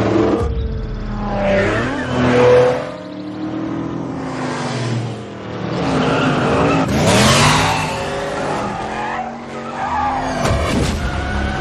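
Classic American muscle car's V8 revving hard, its pitch rising and falling as it accelerates and shifts, with the tyres squealing through the turns.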